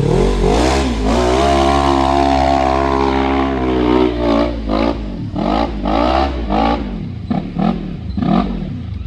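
Off-road vehicle engine holding steady revs, then revving up and down in a run of quick surges.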